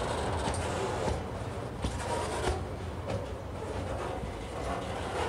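Container flat wagons of a freight train rolling past, a steady wheel-on-rail rumble with a few sharp clicks from the wheels and couplings.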